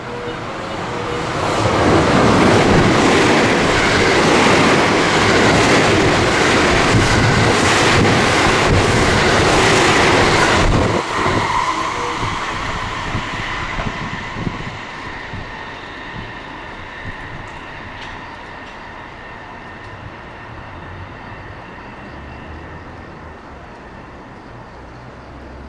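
Train passing through a station at speed without stopping: loud wheel-on-rail rumble and clatter for about nine seconds, cutting off sharply as the last car goes by, then fading as the train moves away.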